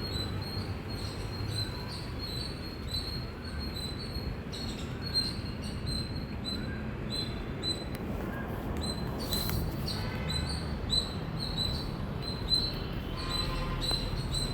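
Indian squirrel chirping: a run of short, high-pitched chirps repeating about two to three times a second, over a steady low background rumble.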